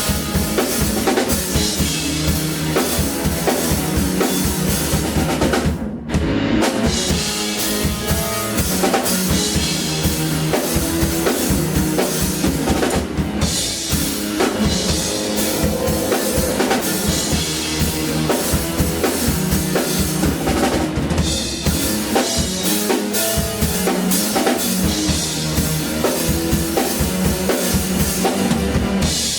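A live band playing with a full drum kit, bass drum and snare keeping a steady beat; the song stops at the end.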